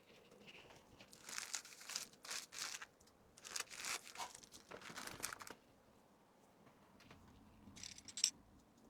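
Plastic packaging crinkling and rustling in irregular bursts as items are handled, with a short crinkle again near the end.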